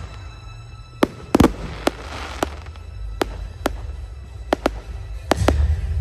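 Fireworks display: about a dozen sharp bangs and cracks from aerial shells, spread irregularly, with a crackling fizz after a double bang about a second and a half in. Music with a low bass plays underneath.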